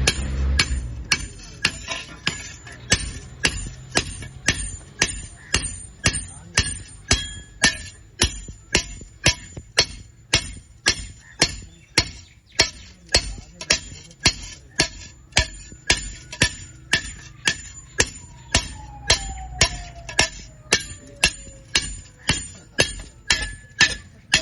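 Hammer striking iron in a steady rhythm, about two blows a second, each blow giving a short metallic ring.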